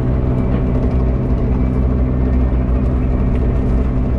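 An engine running steadily at a constant speed, a loud, even drone with no change in pitch.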